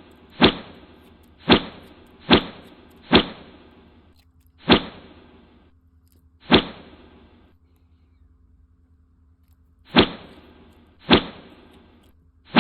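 A sharp whack-like hit repeated about nine times at uneven gaps, each dying away over about a second: an added editing sound effect.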